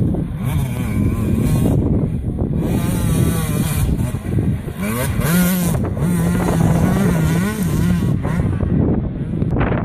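Off-road racing engines on a motocross track, revving hard with the pitch rising and falling repeatedly, and holding a steady note for a few seconds around the middle.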